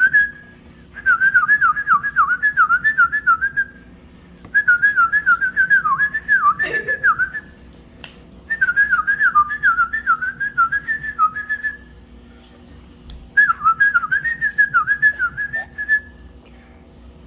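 A person whistling to call puppies: quick, warbling whistled trills in four runs of about three seconds each, with short pauses between them.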